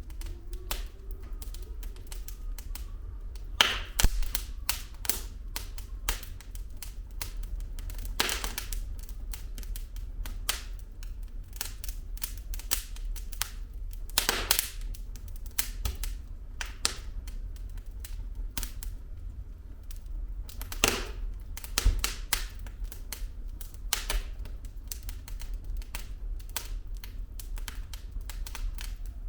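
Wood fire burning in a fireplace, the logs crackling with irregular clicks and a few louder pops, over a low rumble of the flames.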